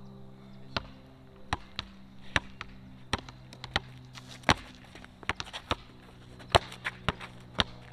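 Basketball being dribbled: a run of sharp bounces at an uneven pace, about one or two a second, over a steady low hum.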